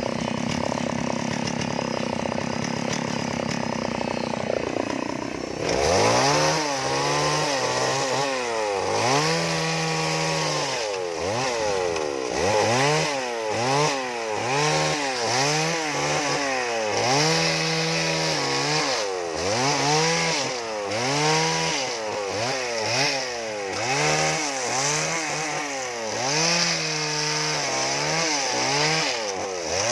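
Two-stroke chainsaw running steadily at first, then from about six seconds in revved up and let off again and again, roughly once a second, as it makes short carving cuts into wood.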